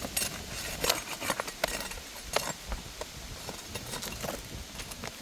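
Flat pry bar working under asphalt roof shingles: scraping with a series of sharp clicks and ticks as the shingles are lifted off their fasteners, the loudest few in the first half.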